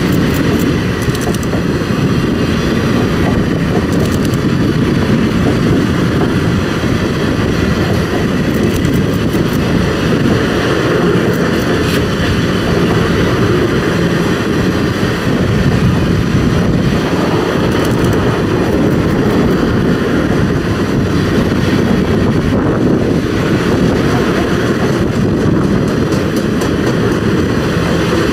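Passenger cars of the Ringling Bros. circus train rolling past: a steady rumble of steel wheels on the rails.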